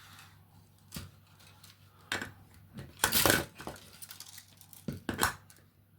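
Hard plastic being handled: a few light knocks and clicks from 3D-printed PLA mask pieces and a 3D pen, with a longer, louder scrape about three seconds in.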